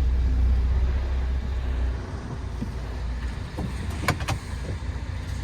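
MAN TGX 18.510 truck's six-cylinder diesel engine running, heard from inside the cab as a steady low rumble that eases off about two seconds in. A few sharp clicks come about four seconds in.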